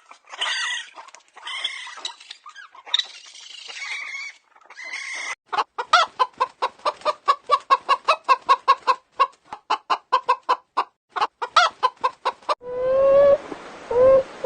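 Chicken calling, then a fast run of short clucks, about five a second, for several seconds. Near the end it cuts abruptly to a different animal giving short rising whines.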